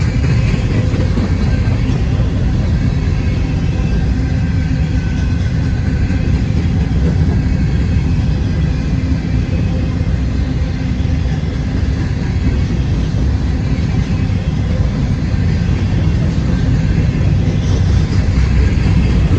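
Norfolk Southern freight train rolling past, a steady loud rumble.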